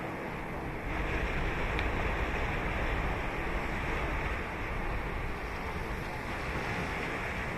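Ocean surf breaking and washing up the beach, a steady rushing that swells about a second in and eases off near the end.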